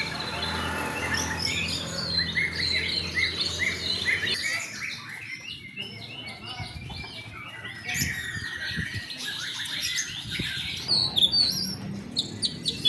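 Many caged songbirds singing at once: a dense, overlapping chorus of quick chirps, whistles and trills.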